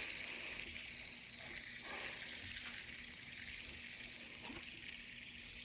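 Faint steady whir of a fidget spinner's bearing as it keeps spinning down, a soft hiss over a low steady hum.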